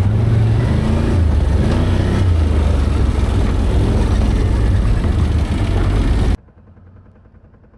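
ATV engine running hard and loud, with a dense noisy rush over its low drone; the sound starts and cuts off abruptly after about six seconds.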